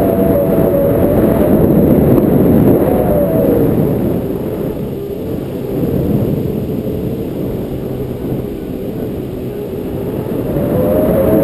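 Motorboat engine running under load with heavy rushing noise, its pitch sliding down in the first few seconds and climbing again near the end.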